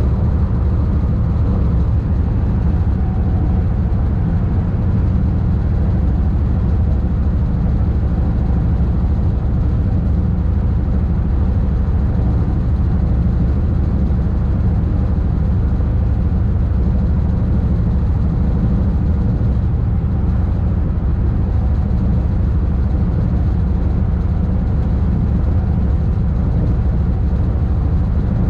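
Steady low rumble of an SBB ICN tilting electric train running at speed through a tunnel, heard from the driver's cab, with no change in pitch or level.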